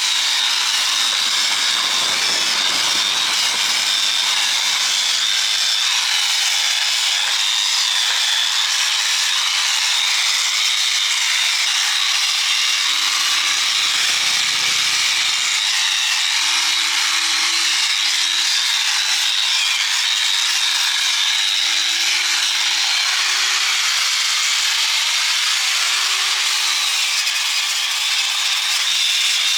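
A power tool grinding or abrading steel without a break, a steady, hissing grinding noise. From about halfway through, a faint motor whine wavers underneath it.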